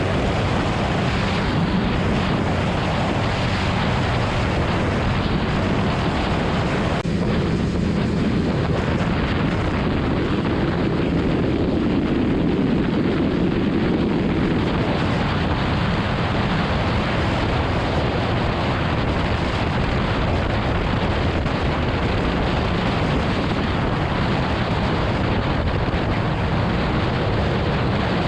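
BMW S1000RR sportbike being ridden: wind rushing over the microphone mixed with the engine's steady running note, with no breaks.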